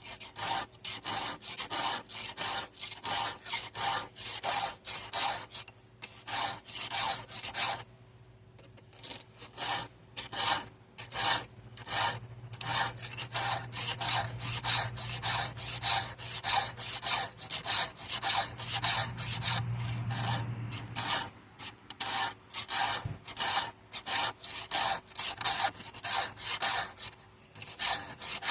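Hand file stroking across the cutters of a chainsaw chain during sharpening: a steady run of rasping strokes, a few a second, with a short pause about eight seconds in.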